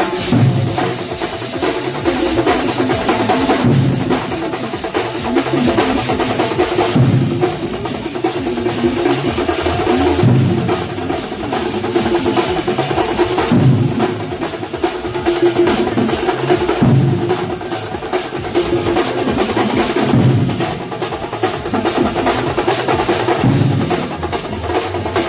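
Kerala chenda drum ensemble (melam) playing a fast, dense rhythm, with a louder low swell that comes back about every three seconds.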